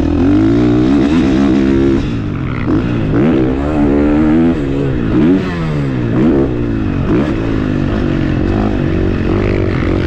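2022 KTM 450SX-F single-cylinder four-stroke motocross engine being ridden hard, held high for about two seconds, then revving up and down over and over as the throttle is worked.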